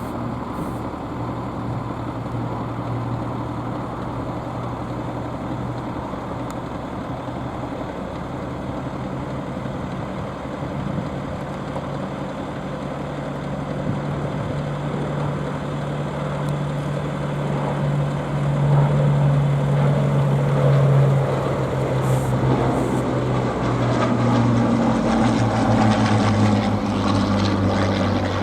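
Propeller aircraft's piston engine running steadily. Its note climbs gradually, growing louder after about two-thirds of the way, then drops back near the end.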